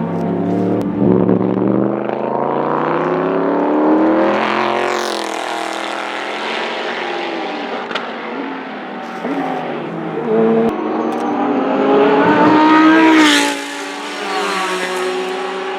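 Race cars at full throttle on a circuit, engines revving and climbing in pitch as they pass by. Two cars go past, the second louder, its sound cutting off sharply just after passing, about two-thirds of the way in.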